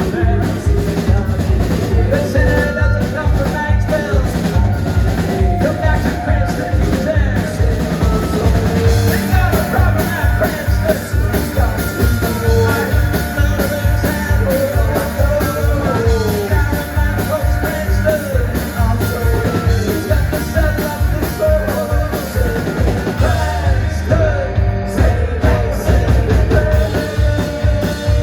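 Live alt-country/gothic rock band playing: fast, steady drum beat, bass and guitars, with sung vocal lines over them.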